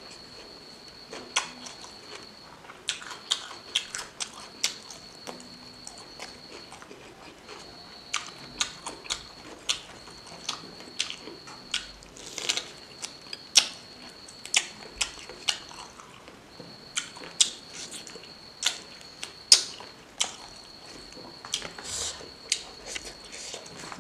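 Close-miked chewing and wet mouth sounds of someone eating pork and rice by hand, with many sharp smacks and clicks several times a second, including a bite into a lemon slice about halfway through. A faint high steady whine comes and goes underneath.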